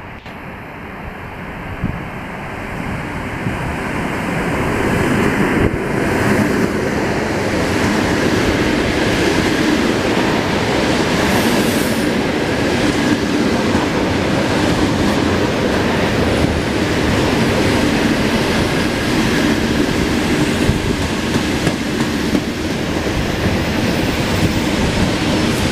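Electric commuter train approaching and running along the platform. It grows louder over the first five seconds or so, then holds a steady loud rumble of wheels and carriages on the rails as the cars go by.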